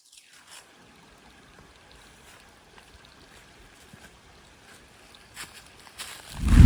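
Faint, steady hiss with a few soft clicks, then a loud swell near the end as music comes in.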